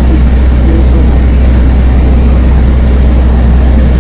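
Airport apron bus driving, heard from inside the cabin: a loud, steady low engine drone with road rumble.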